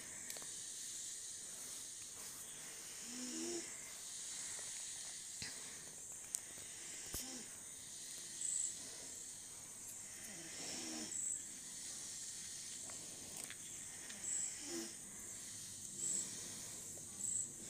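Faint steady sizzling of egg and chopped vegetables frying in a hot nonstick pan, with scattered short scrapes and clicks of a spatula stirring through them.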